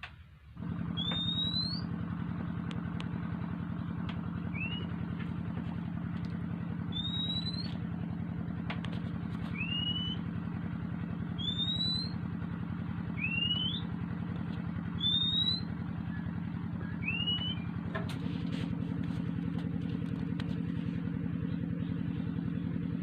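Oriental magpie-robin giving short rising whistled calls, one every second and a half to two seconds. Underneath, a small engine runs steadily and is the loudest sound.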